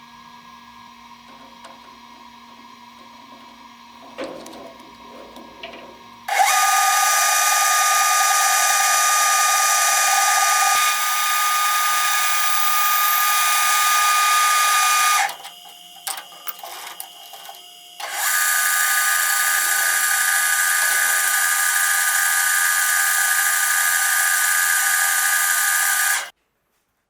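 A high-speed power tool running steadily with a whine and hiss in two long runs, each starting and stopping abruptly. Between the runs there are a few light knocks.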